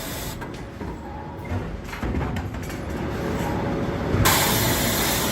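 Sawmill machinery and log conveyors rumbling steadily, growing louder about two seconds in, with a loud hiss starting near the end.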